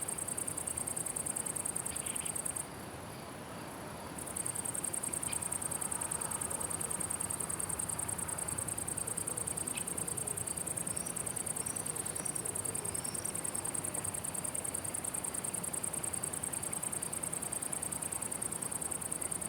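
Insect stridulating: a continuous high-pitched, rapidly pulsing buzz that breaks off for about a second and a half around three seconds in, then resumes. A few faint bird chirps come in just past halfway.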